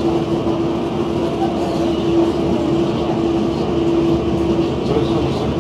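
Electric commuter train running, heard from inside the carriage: a steady rumble of the car with a constant mid-pitched hum throughout.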